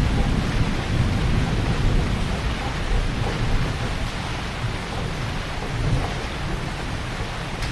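Heavy rain falling steadily, with a deep low rumble underneath that eases after about four seconds.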